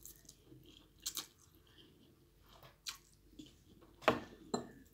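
Someone eating Indomie instant noodles and egg: quiet chewing, with scattered short smacks and clicks. The loudest comes about four seconds in.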